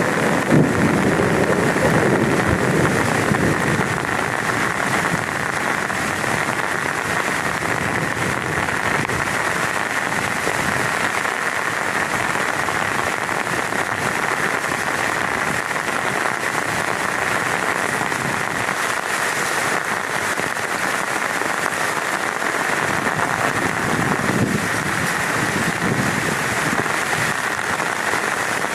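Heavy rain falling steadily on a tent. A low rumble of thunder dies away in the first few seconds.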